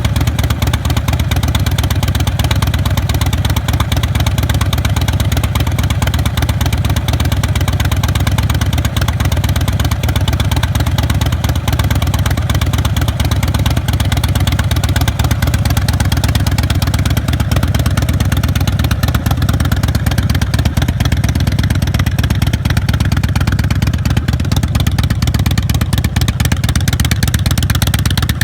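2009 Big Dog Wolf pro-street chopper's V-twin engine running steadily at idle, a loud, even, low exhaust pulse.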